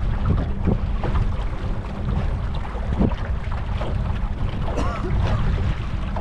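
Wind buffeting the microphone on a small boat out on the water, with water splashing and sloshing against the hull and a faint steady hum underneath.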